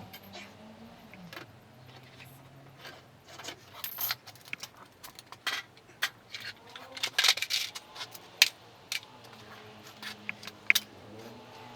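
Irregular light metallic clinks and taps, small metal objects knocking together, thickest about halfway through, over a faint low hum.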